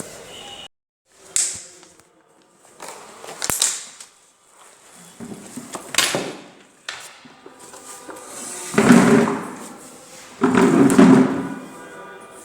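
A series of separate knocks, thuds and rustling swishes, about six in all, with the audio dropping out briefly under a second in.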